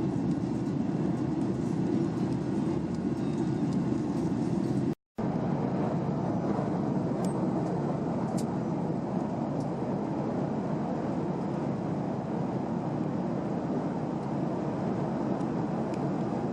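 Steady cabin noise of a Boeing 737-800: the rumble of its CFM56-7B engines and the airflow. About five seconds in, the sound drops out for a moment at an edit, and it comes back brighter.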